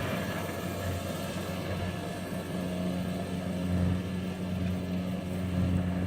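An engine running steadily at constant speed with an even low hum.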